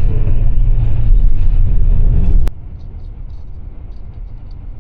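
Loud low rumble of a moving coach on the road, which cuts off abruptly about halfway through and gives way to a much quieter low drone.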